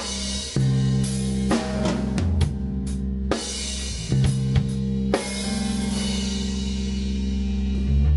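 Live instrumental rock band playing: drum kit with cymbal crashes, over bass and guitar chords. It plays a run of accented hits, and after the last one, about five seconds in, a chord is held ringing.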